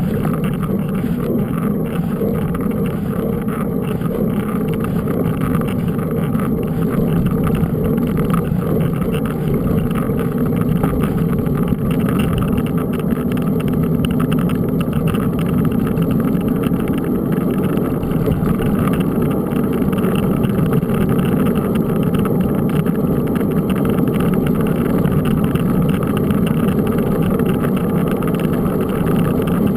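Steady rumbling, rushing noise of a mountain bike being ridden: wind on the microphone and tyres rolling, with no distinct separate events.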